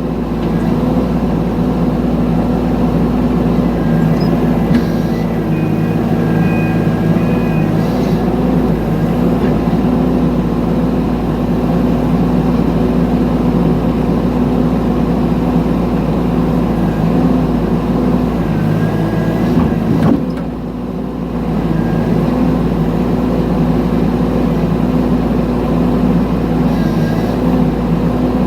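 Mini excavator engine running steadily under a digging workload, with a brief dip in level about twenty seconds in.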